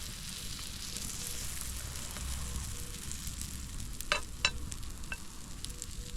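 Potato pancake batter sizzling in oil on a hot cast iron plate over a campfire, a steady frying hiss. A couple of short sharp clicks come about four seconds in.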